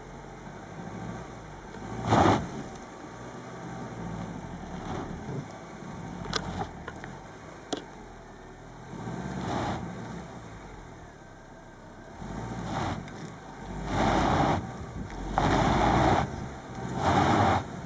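Small car's engine revved hard in repeated bursts as it strains to climb its wheels out of a roadside ditch. There is one burst about two seconds in, a few weaker ones, then three longer, louder revs near the end.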